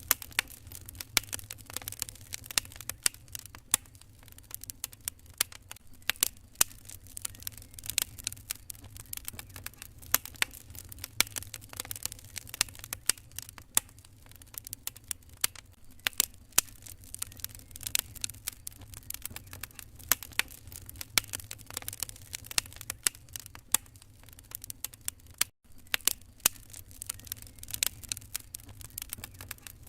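Wood fire crackling in a fireplace: irregular sharp pops and snaps over a low steady rumble, with a momentary gap about 25 seconds in.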